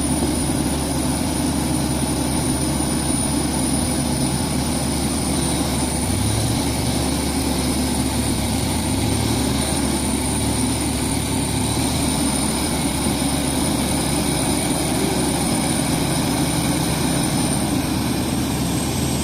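Heavy truck's diesel engine running steadily under load in mud, with a thin high whistle over the drone that dips slightly near the end.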